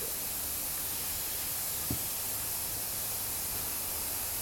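Steady hiss of the recording's background noise, with one faint click about two seconds in.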